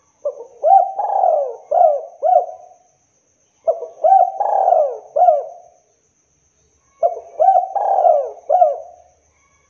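Spotted dove (tekukur) cooing: three song phrases about a second apart, each a quick run of four or five short coos that rise and fall in pitch.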